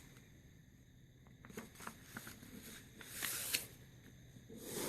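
A sheet of printer paper being folded and creased by hand: faint crackles, then a brief rustling swish about three seconds in.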